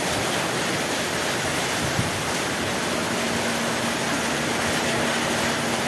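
Heavy rain pouring down, a dense, steady hiss. A faint low steady hum joins about halfway through.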